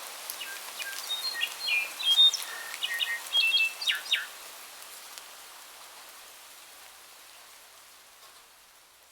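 Steady rain-like hiss with scattered drop ticks. A bird chirps and whistles in short high notes over the first four seconds, and then the hiss slowly fades away.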